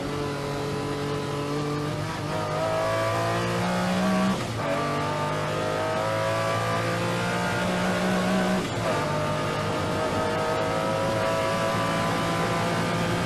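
Lamborghini Diablo V12 engine accelerating hard through the gears: its pitch climbs steadily, then drops suddenly at upshifts about four seconds in and again near nine seconds.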